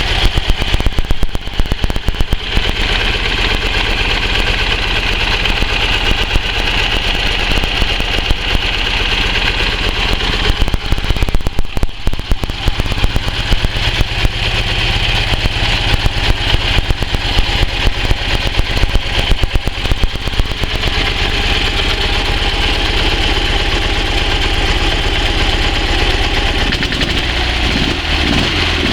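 Customised heavy motorcycle's flat-twin engine running at idle. It is uneven in loudness with occasional surges through the first two-thirds, then settles steadier near the end.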